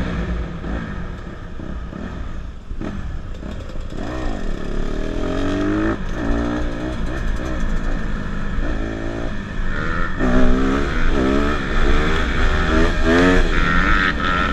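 Dirt bike engines revving, the pitch sweeping up and down again and again, with quick blips coming closer together in the second half.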